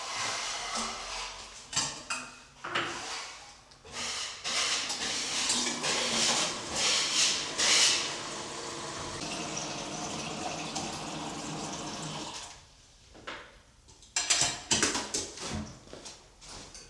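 Water running or pouring for several seconds as a steady rush, with knocks and clinks of dishes before it; it stops about three-quarters of the way through, and more knocks follow near the end.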